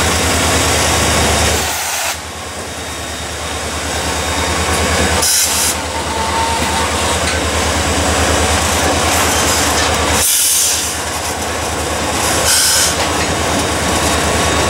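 Freight train passing close by, led by a CSX EMD SD40-3 diesel locomotive with a second, GE-built unit behind it: the diesel engines run with a steady low pulsing throb over rumbling steel wheels on the rail. A short hiss-like noise comes three times, and the first covered hopper rolls past near the end.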